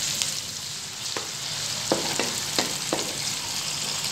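Chopped tomatoes and sliced onions sizzling in hot oil in an aluminium karahi, stirred with a wooden spoon that knocks against the pan about six times.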